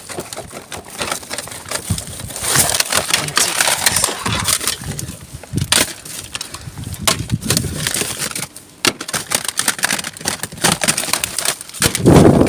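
Plastic DVD cases clattering and knocking together as they are rummaged through by hand in a bin, with irregular clicks and rustling throughout.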